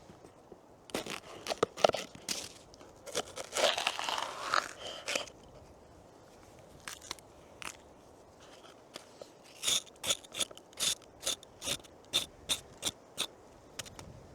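Crunching: a few irregular crunches and scrapes in the first half, then a steady run of crunches about two a second near the end.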